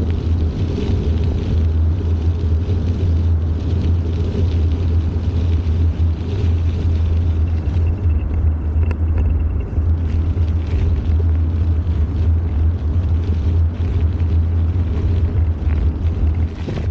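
Steady low rumble of riding noise from a bicycle in motion, wind buffeting and vibration on the bike-mounted camera's microphone.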